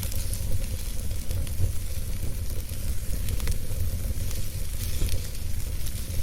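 Wood campfire burning: soft crackles and sharp pops scattered irregularly over a steady hiss and low rumble.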